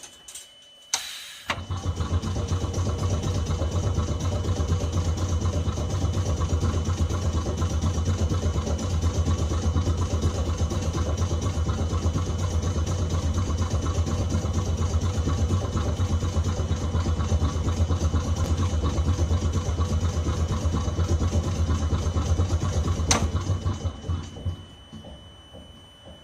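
A 370-series tram's air compressor cutting in about a second and a half in, running steadily with a low hum for about twenty seconds, then winding down and stopping near the end. It is topping up the brake air reservoir while the car stands at a stop.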